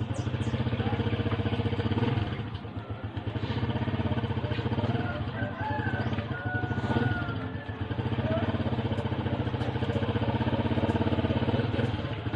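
An engine running steadily, with a fast even pulse and brief dips in loudness about every five seconds.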